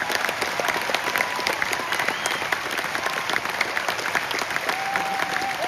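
Audience applauding: a dense, steady clatter of many hands clapping. Near the end a single held high tone, likely a voice, rises over the clapping.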